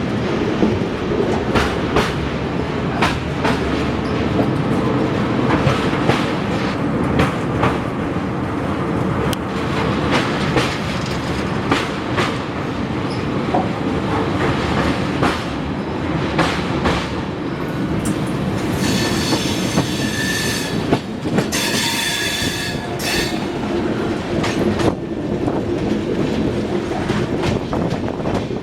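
Passenger train running, heard from on board, with the steady rumble of the coaches and the regular clicks of wheels over rail joints. Twice, about two-thirds of the way in, a high-pitched steel-wheel squeal rises over it.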